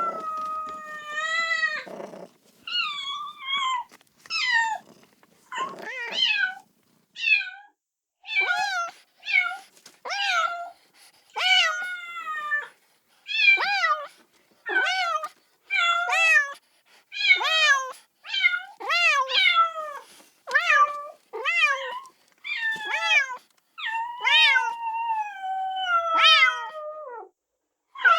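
Kitten meowing repeatedly in short, high-pitched calls, about one a second, crying for its mother, with a longer falling meow near the end.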